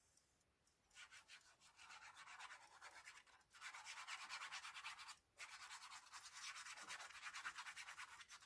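Fast, scratchy rubbing on paper: many quick strokes starting about a second in, with two brief pauses, as glue is worked onto a paper tag.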